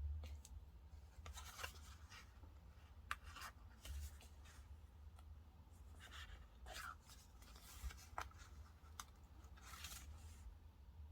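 Faint, intermittent scratches and rustles of stationery being worked on a paper diary page: about eight short strokes with pauses between them, over a low steady hum.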